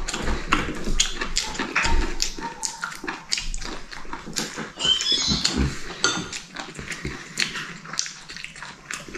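A dog making sounds at intervals among many small clicks and knocks of eating and dishes.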